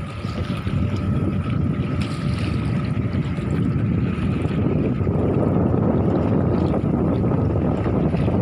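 Steady wind rushing over the microphone with sea water noise around a fishing boat, growing a little louder about halfway through.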